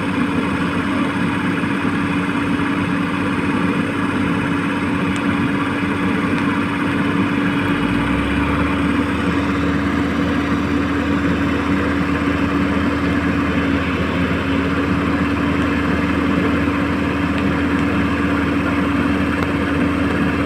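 Hitachi-style 1593 radio-controlled excavator working, a steady motor hum with one constant tone. A deeper hum joins about eight seconds in.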